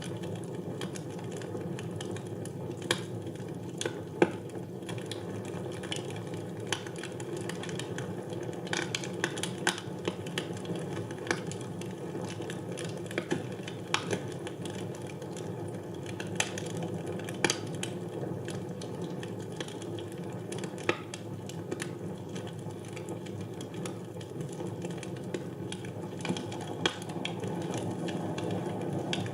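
Wood fire burning in a fireplace: a steady rush of flame with irregular sharp crackles and pops from the burning logs, a few louder pops scattered through.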